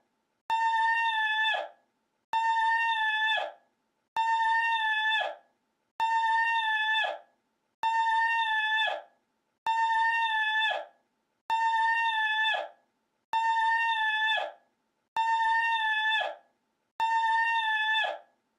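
The same short, steady, high-pitched cry repeated about every two seconds, ten times, with silence between each: one sound clip played in a loop.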